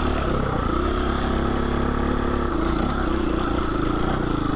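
Husqvarna 350 FE's single-cylinder four-stroke engine running steadily at moderate revs, its pitch wavering slightly, with a few light ticks near the middle.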